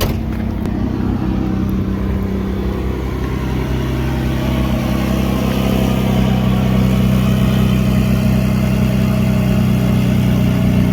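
1995 Ford F-150's 4.9-litre straight-six running through a freshly installed 2.5-inch straight-pipe exhaust with no muffler, idling steadily, getting somewhat louder about halfway through.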